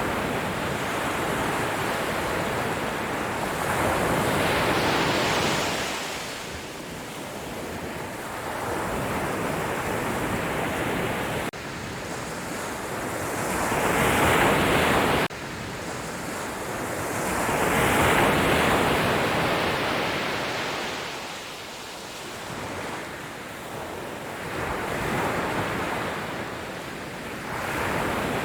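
Sea waves breaking and washing up a beach, rising and falling in surges several seconds apart. One surge breaks off suddenly about halfway through.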